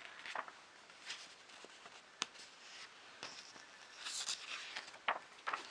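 Hands handling small objects: scattered light clicks and soft rustles, with one sharp click about two seconds in and a longer rustle near four seconds.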